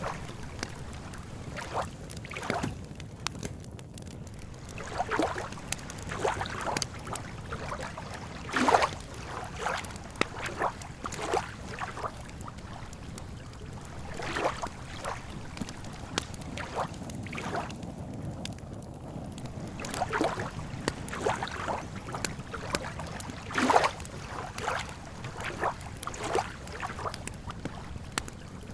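Campfire crackling with irregular snaps and pops, two of them sharper about nine seconds in and near the end, over a steady low wash of lake water lapping.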